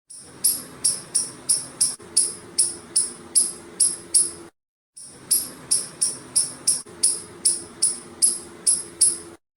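Squirrel giving a rapid series of sharp, high-pitched chirping calls, about three a second, broken by a brief silence about halfway through.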